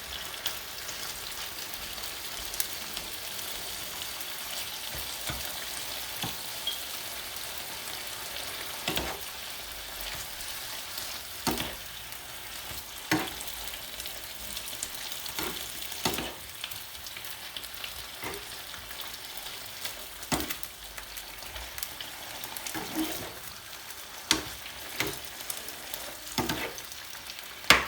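Diced chicken sizzling in hot olive oil in a frying pan, stirred with a spoon, with sharp scrapes and knocks of the spoon against the pan every second or two over the steady sizzle.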